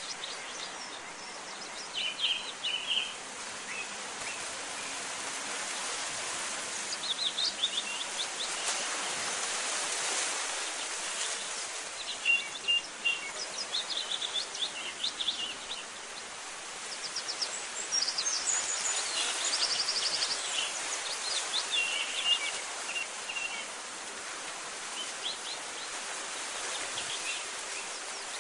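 Small songbirds chirping in short, quick repeated calls over a steady background hiss.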